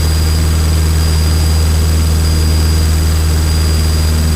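Single-engine Cessna trainer's piston engine and propeller droning steadily at climb power, heard inside the cockpit, with a thin steady high whine over it.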